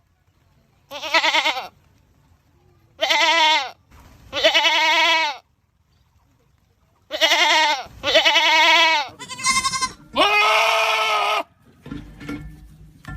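Goats screaming: about seven loud, wavering bleats, each up to about a second long, with short silences between them. A lower, rougher sound follows near the end.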